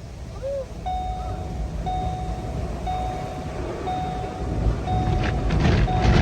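Electronic beeping, one steady beep about every second, six in all, over a low machine rumble that grows louder with a rising hiss near the end.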